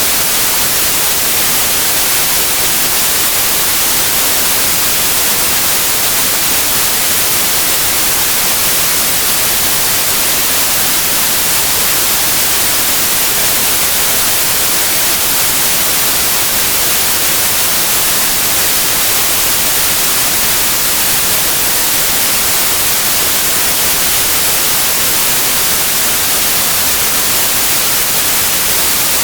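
Steady white noise: an even, unbroken hiss strongest in the high frequencies, with no melody, rhythm or changes.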